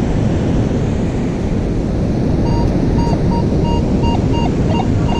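Wind buffeting the microphone over crashing surf. About halfway through, a Minelab Manticore metal detector starts sounding a repeated high beep, a few beeps a second, as the coil passes over a buried metal target.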